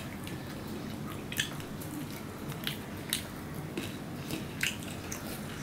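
Close-miked eating sounds: a person chewing rice and fish curry, with scattered short wet mouth clicks and smacks and the soft squish of rice being mixed by hand.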